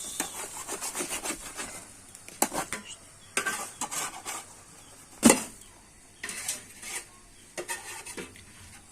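Rubbing and scraping on a hard surface, continuous at first and then in short separate strokes, with one sharp knock about five seconds in.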